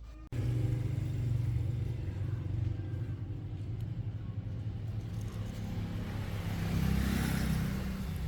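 2004 SYM motorcycle engine running steadily, cutting in abruptly right at the start, and briefly getting louder about seven seconds in.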